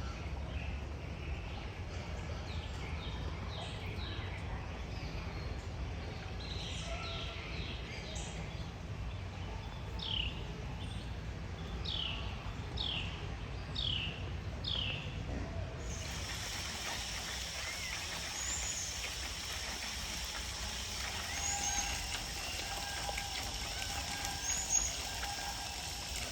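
A bird calling: a run of short chirps that sweep downward, about one a second, over steady outdoor background noise. After a cut about two-thirds of the way in, a steady hiss with trickling water and a few faint high chirps.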